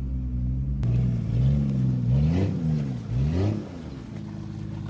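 Jeep engine revving under throttle in two rising-and-falling surges about a second apart, then settling back to lower steady running near the end. A sharp click just under a second in.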